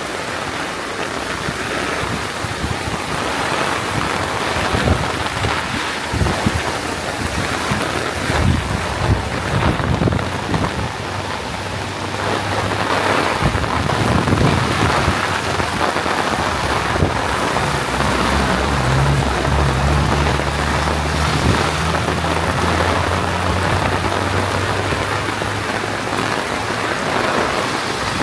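Heavy rain falling steadily. About halfway through, a low steady drone joins in and fades out near the end.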